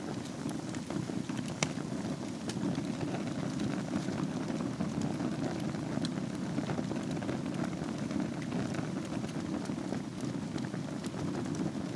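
Fire burning in a fireplace: a steady low rush of flames with scattered small crackles and pops, one sharper pop about a second and a half in.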